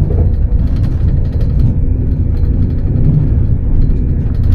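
Passenger train running, heard from inside the carriage: a steady, loud low rumble with a faint steady hum above it.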